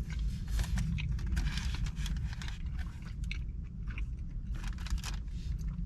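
A person chewing a mouthful of breakfast burrito, with irregular soft crunching and smacking, over a steady low rumble.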